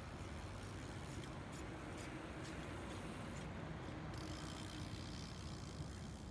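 Steady low ambient rumble, with a few faint high ticks in the first half.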